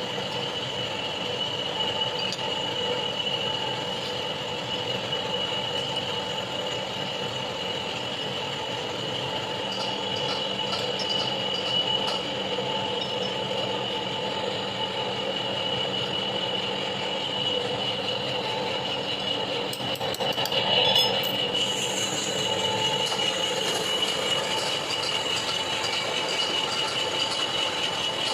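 A machine tool cutting metal: a steady mechanical running noise with a high squealing tone held throughout. A brief rattle of clicks comes about two-thirds of the way through.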